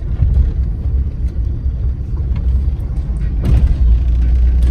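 Low, steady road and engine rumble of a moving Suzuki Cultus car heard from inside the cabin, with a brief louder swell about three and a half seconds in.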